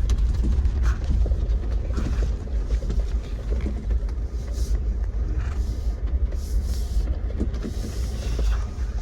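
Jeep driving on a rough dirt off-road trail: a steady low rumble with frequent small knocks and rattles from the bumps.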